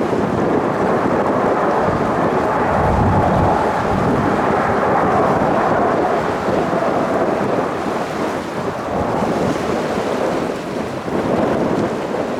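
Jet airliner's engines roaring loudly as it passes, strongest a few seconds in, with a faint whine that drops slightly in pitch as the aircraft goes by.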